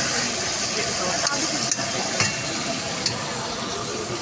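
Chicken pieces sizzling as they fry in hot oil in a karahi, with a metal spatula scraping and clicking against the pan now and then.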